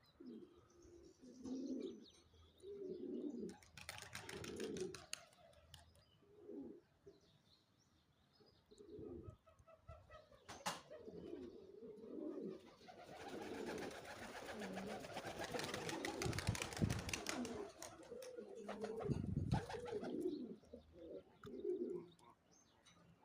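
Domestic pouter pigeons cooing again and again in low, pulsing calls. There are a few sharp clicks, and a stretch of rustling, flapping noise about halfway through.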